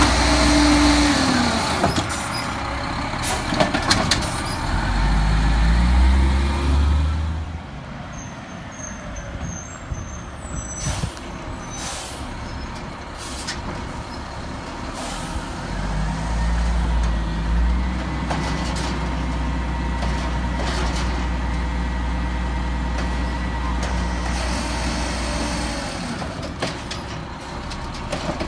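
Diesel engine of a Peterbilt 320 garbage truck with an Amrep side-loader body, revving up and holding at speed three times. In the middle it drops back to a quieter run for several seconds, with a few sharp knocks.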